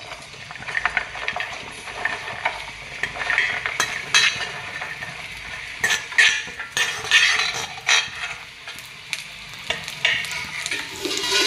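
Cut flat beans dropped a few at a time into hot oil in a kadhai, sizzling as they fry, with several sharp clinks of steel utensils.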